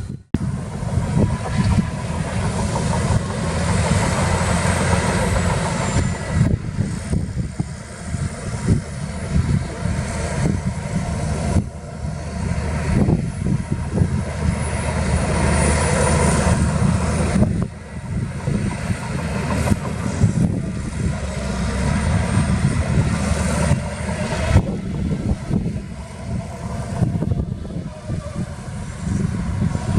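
Diesel engines of heavy earthmoving machinery running steadily under load, with a few brief dips.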